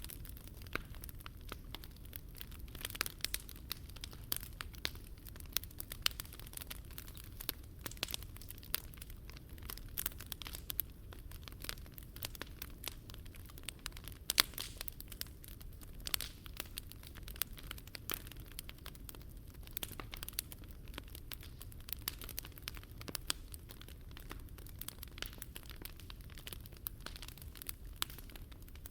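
Wood fire crackling, a steady stream of irregular sharp pops and snaps over a low rumble, with one louder pop about halfway through.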